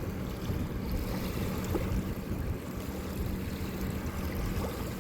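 Steady low rumble with a faint constant hum underneath and a few small ticks.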